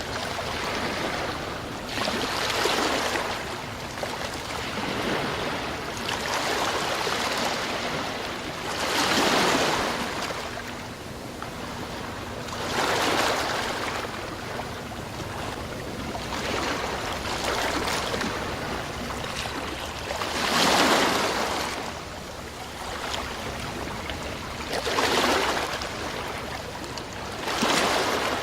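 Sea waves breaking and washing in, swelling and fading in surges every three to four seconds.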